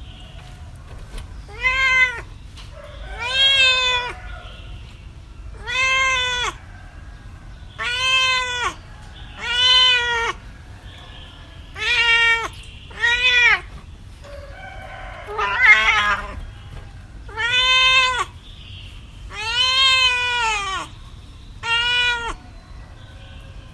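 Cat meowing over and over, about eleven separate meows spaced a second or two apart, each rising and then falling in pitch. One call about two-thirds of the way through is rougher and harsher than the others.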